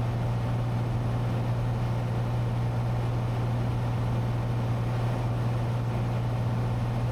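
Cessna 182T's six-cylinder Lycoming engine and propeller droning steadily in cruise flight, heard inside the cabin.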